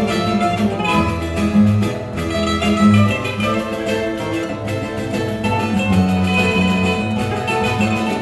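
A choro ensemble playing: plucked string instruments carry a busy melody over a moving bass line.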